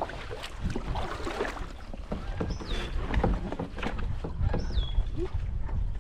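Paddling a small boat: irregular paddle strokes, splashes and knocks on the hull over a low water-and-wind rumble. A bird calls twice with a high whistle that slides downward.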